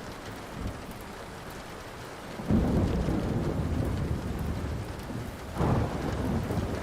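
Thunder rumbling over steady rain. A deep rumble starts suddenly about two and a half seconds in and swells again near the end, with faint crackles from a wood fire.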